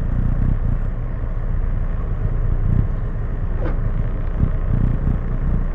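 Steady low rumble of a motor vehicle, with a short rising tone about three and a half seconds in.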